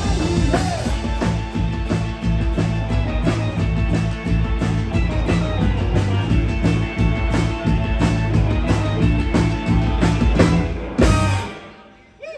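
Live rock band with drum kit and electric guitar playing a steady driving beat, ending the song on a final loud hit about eleven seconds in that rings out and fades quickly.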